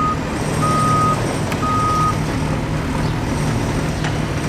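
Reversing alarm on a heavy construction vehicle beeping about once a second in steady single-pitch pulses, stopping about two seconds in, over the vehicle's engine running steadily.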